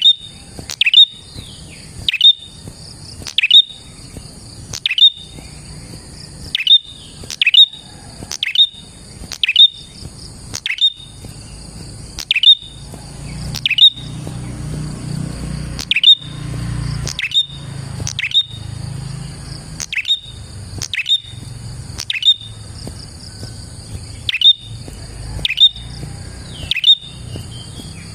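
Prenjak (prinia) calling: a sharp, loud chirp that falls quickly in pitch, repeated about once every second and a quarter, over a steady high-pitched background buzz. It is a masteran lure call of the kind used to attract wild prenjak and to stir caged ones into singing.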